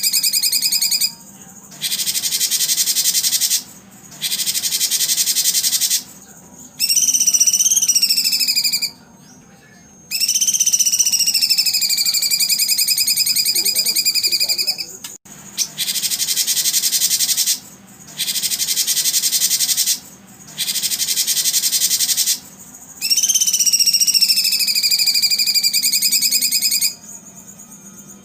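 Recorded songbird song used to train competition birds: long, wavering whistled phrases alternate with harsh, rapid buzzing trills, each phrase a few seconds long with short pauses between.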